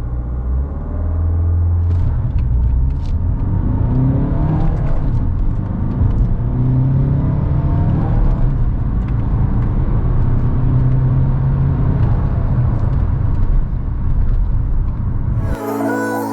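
Alfa Romeo 159's 2.0 JTDm four-cylinder turbodiesel accelerating hard through the gears of its six-speed manual gearbox, the engine pitch climbing in each gear.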